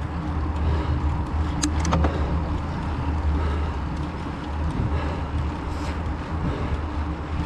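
Mountain-bike riding noise on a trail climb: a steady low rumble, with a few sharp clicks just under two seconds in.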